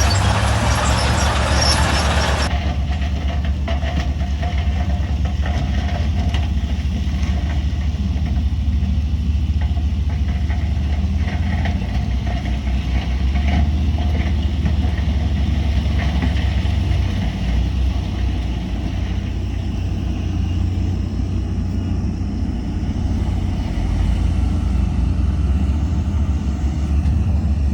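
Heavy diesel engine of earthmoving machinery running steadily with a deep, even rumble. A loud rushing hiss covers it for the first two and a half seconds, then cuts off abruptly.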